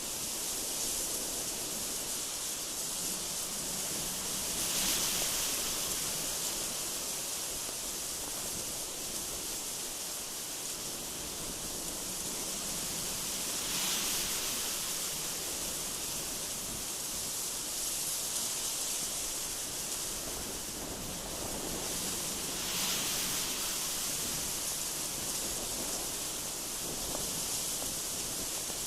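Strong, gusty wind blowing with a steady high hiss. It swells into stronger gusts about five seconds in, again around the middle, and again about two-thirds of the way through.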